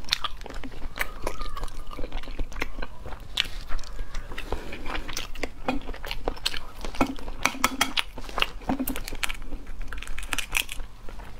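Close-miked chewing of a boiled embryo egg, then fingers cracking and peeling the eggshell, many sharp clicks and crackles.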